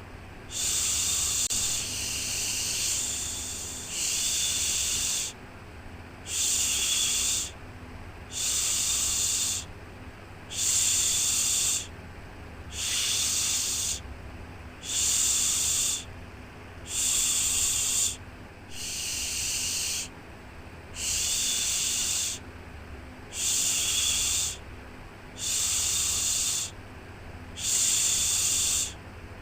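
Rhythmic shushing, a soft 'shhh' about a second long repeated about every two seconds, the kind used to lull a baby to sleep, over a faint steady low hum.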